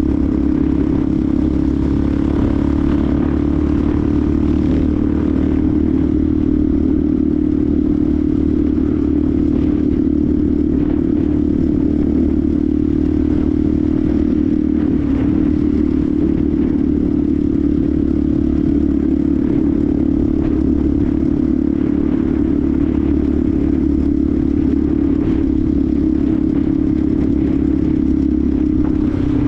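Benelli TNT 125's single-cylinder 125 cc four-stroke engine running at a steady, even pitch, with a slight waver about halfway through.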